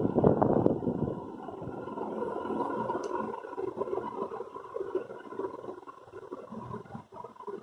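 Arge Argelux three-blade ceiling fan running: a loud rush of air buffeting the microphone for about the first second, then a quieter, uneven whir with a faint hum.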